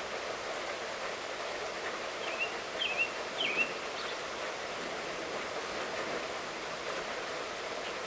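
Steady light rainfall, with a bird giving three short chirps a little over two seconds in.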